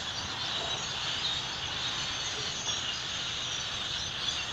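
Steady din of a large flock of small birds chirping all at once in the trees, many calls blending into one continuous chatter.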